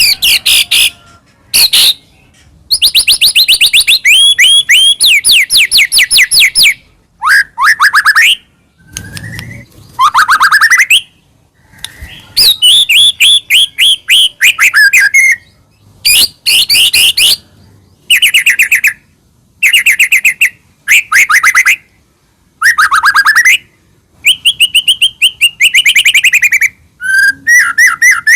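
White-rumped shama (murai batu) singing loudly, bursts of rapid trilled notes and sweeping whistles with short pauses between phrases. The song is the full, varied 'gacor' song of an in-form bird.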